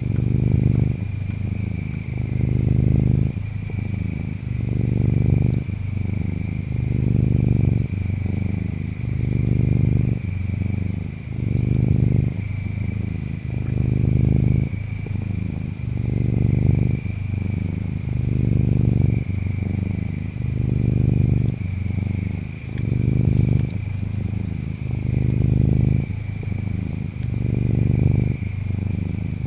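Domestic cat purring steadily, the low rumble swelling and easing about every two seconds with each breath in and out. Behind it, insects chirp in a steady high trill, with a burst of very high-pitched chirping every four or five seconds.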